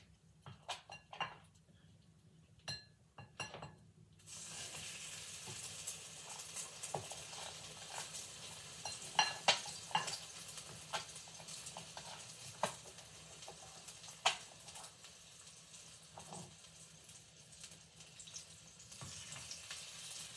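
Egg-coated blueberry waffle frying in hot butter in a skillet, sizzling steadily from about four seconds in. Light clicks and clinks of dishes come before the sizzle starts and here and there during it.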